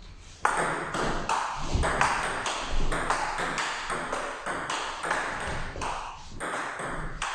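Table tennis rally: the ball clicking off the bats and bouncing on the table in a quick, steady rhythm of about three hits a second, starting about half a second in and running through a long exchange.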